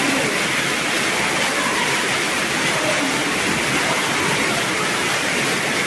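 Heavy rain pouring steadily, a loud, even hiss that does not let up.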